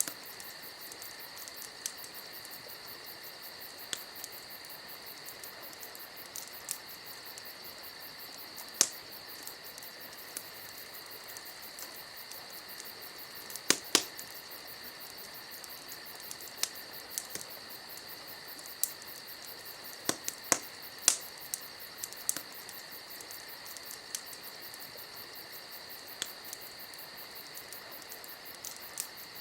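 Campfire crackling with sharp, irregular pops over a steady, high-pitched chorus of crickets.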